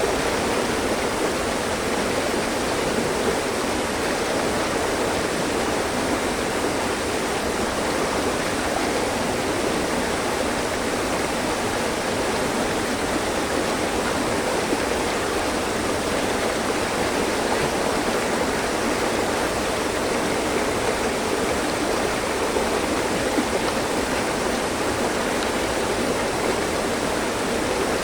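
Mountain stream running over rocks: a steady rush and burble of water.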